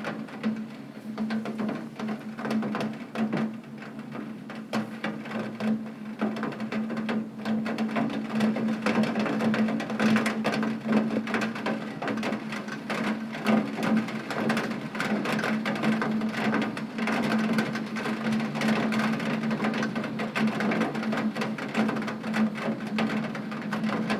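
Heavy rain hitting a window, a dense, uneven drumming of drops on the glass over a steady low hum.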